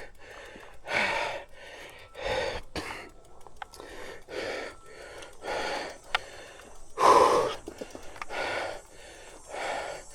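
A mountain biker breathing hard from exertion, a heavy breath about every second, the loudest about seven seconds in. A couple of short sharp clicks come between the breaths.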